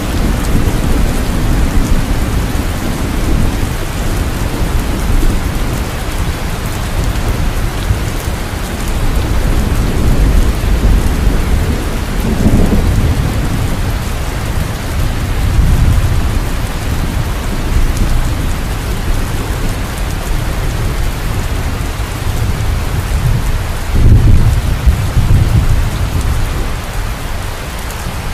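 Steady rain with several low, rolling rumbles of thunder, the strongest near the end.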